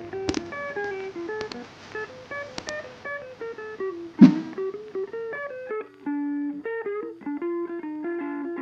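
Guitar music: a plucked guitar melody of single notes stepping up and down, with a sharp hit about four seconds in that is the loudest sound.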